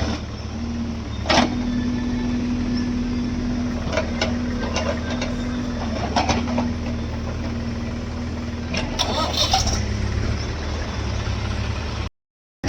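Heavy diesel machinery running steadily with a droning tone, with sharp knocks and clanks about a second in and again around four, six and nine seconds.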